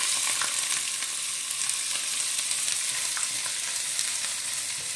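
Oil sizzling steadily in a non-stick pan as onions, garlic, curry leaves and fenugreek seeds are stir-fried with a spatula, with scattered small pops. The fenugreek pops while some water is still left in the pan.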